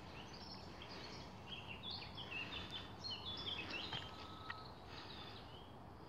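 Songbirds singing faintly, quick high chirps and short trills clustered through the middle seconds, over a steady outdoor hiss.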